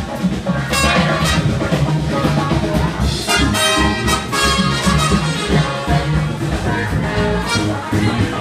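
Live band playing jazzy music, with brass horns carrying sustained notes over a steady bass line and drums.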